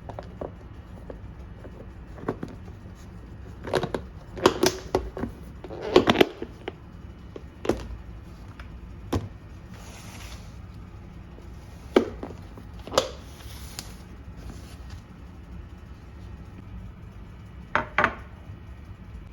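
Kitchen work sounds: scattered knocks and clinks of utensils and dishes being handled, with a busier cluster of handling sounds about a quarter of the way in, over a steady low hum.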